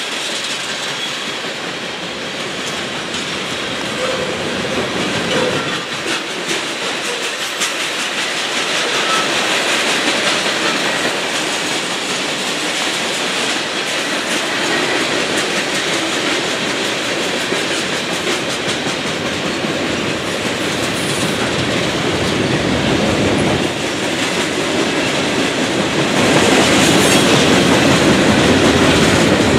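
Freight cars of a long mixed freight train rolling past, a steady rumble with the wheels clicking on the rails, getting louder near the end.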